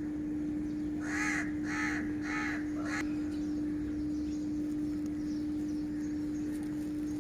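A bird calling four times in quick succession, starting about a second in, over a steady low hum.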